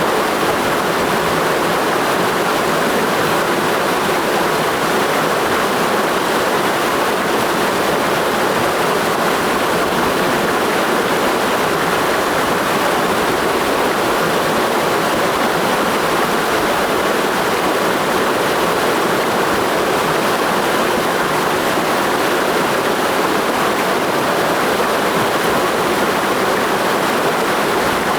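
Clear mountain stream rushing in a steady, even flow, with a constant full rush of water and no breaks.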